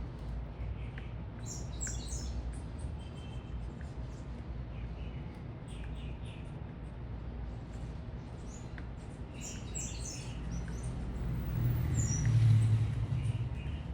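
Small birds chirping in short high bursts, a few at a time, at a bird feeder. Under them runs a steady low city traffic rumble, and one vehicle's rumble swells to the loudest point near the end.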